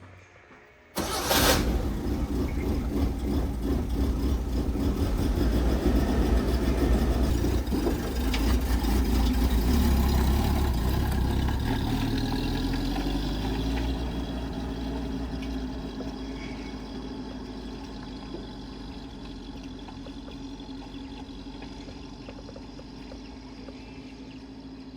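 Truck engine starting about a second in and running with a deep, low sound, then gradually getting quieter over the second half.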